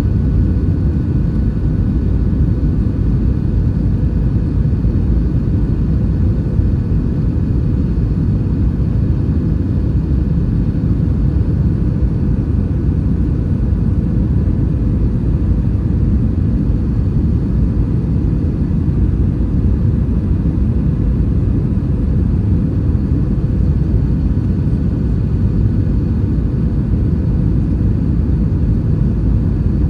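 Steady low rumble of an Airbus A320-232's IAE V2500 engines and airflow heard inside the cabin in flight, with a faint steady hum over it and no change in pitch or level.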